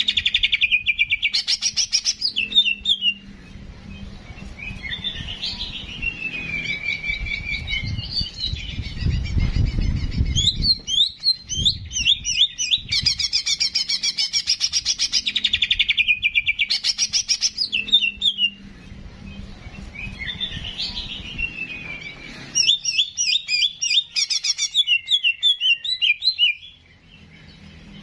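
Cucak jenggot (grey-cheeked bulbul) song from a looped training recording: fast trilled chirps and sliding whistled phrases, the same sequence repeating about every 16 seconds. A low rumble sits under the song around the middle.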